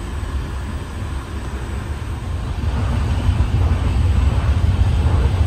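Steady low rumble and hiss of a moving passenger train, heard from inside a sleeper carriage, growing louder about three seconds in.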